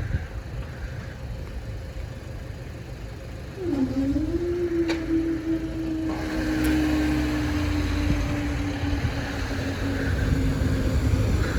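Class 395 Javelin electric train's traction motors whining at a steady pitch, starting about three and a half seconds in, with a low rumble that grows louder about halfway through.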